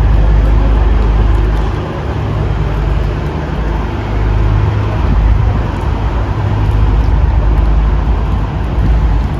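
V/Line VLocity diesel railcar running, a loud, steady low engine drone with rail and wind noise over it.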